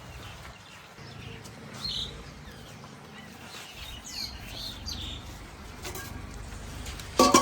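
Birds chirping faintly over a low steady rumble, with a sharp knock near the end.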